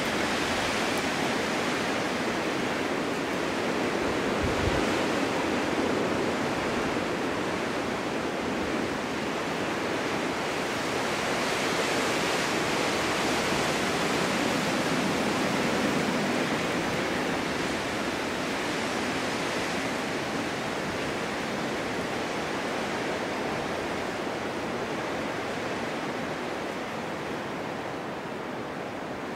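Snowstorm wind rushing through a snow-covered forest: a dense, steady hiss that swells and eases in slow gusts and dies down slightly near the end.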